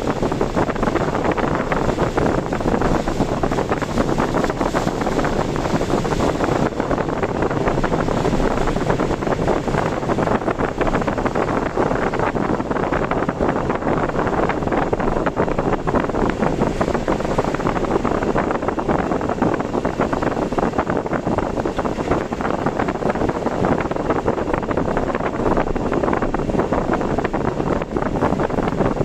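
Steady rushing noise of strong typhoon wind over the microphone, mixed with a vehicle's road noise while driving.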